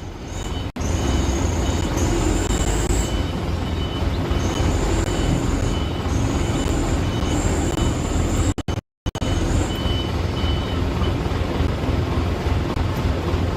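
Heavy truck engine running under load, a steady deep rumble with a thin high whine that comes and goes. The sound cuts out briefly twice, about a second in and about two thirds of the way through.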